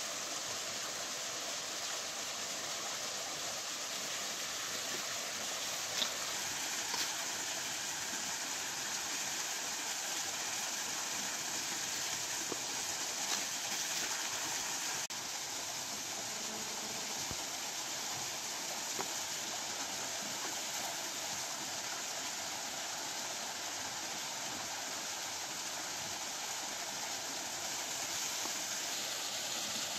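Waterfall water rushing steadily over rocks, with a few short knocks here and there.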